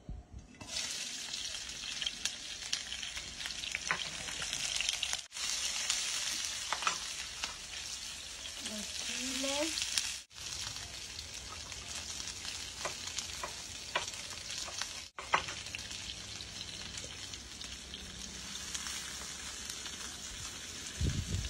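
Sliced onion and bell peppers sizzling in hot oil in a skillet. The sizzle starts suddenly about half a second in as the onion goes into the pan, with scattered clicks from stirring and three brief gaps.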